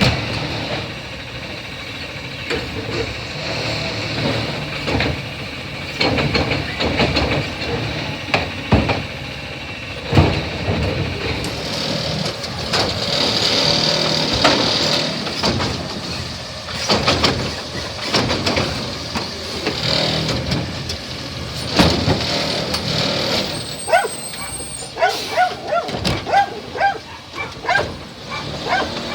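CNG Autocar Xpeditor garbage truck with a New Way Sidewinder automated side-loader arm at work: engine running, a hydraulic whine, and repeated clattering knocks as a cart is handled and emptied.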